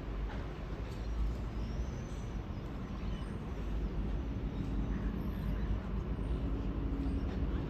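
V set double-deck electric intercity train pulling slowly into the platform: a low rumble of wheels and running gear that grows louder as it nears, with a steady hum joining about halfway through.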